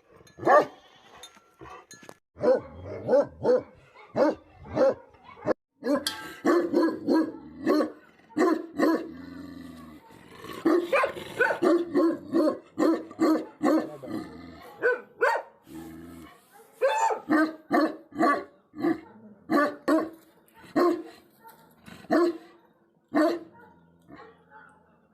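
Tibetan mastiff barking over and over in deep, short barks, some in quick runs and others spaced out, with the barking densest about halfway through.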